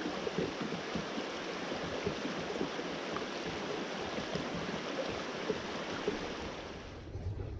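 River water rushing and burbling steadily, cutting off abruptly near the end.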